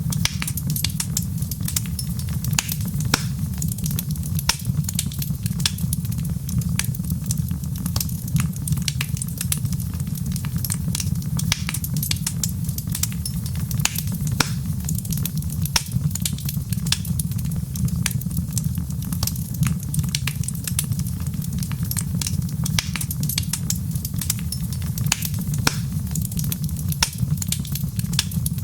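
Crackling wood fire: a dense, irregular run of sharp pops and snaps over a steady low rumble.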